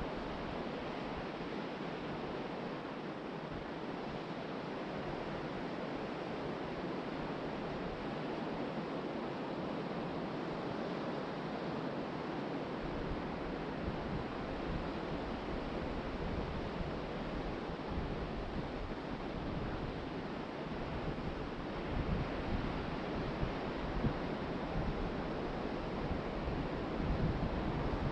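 Ocean surf washing onto a beach, a steady rushing hiss, with wind. From about halfway through, gusts buffet the microphone in low rumbles that grow stronger near the end.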